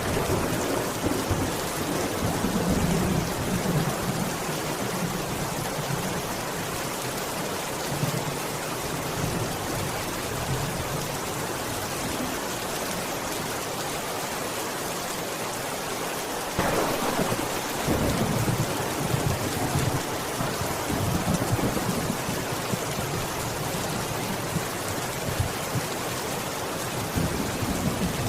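Steady heavy rain with rolling thunder. Low rumbles swell and fade, and a louder thunderclap breaks about two-thirds of the way through and rumbles on for several seconds.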